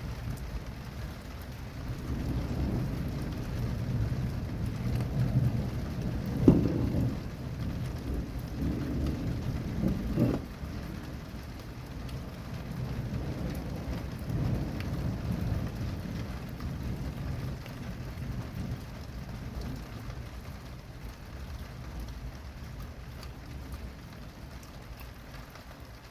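Thunder rumbling through steady rain, swelling a couple of seconds in, with two sharper cracks, then rolling on and slowly fading.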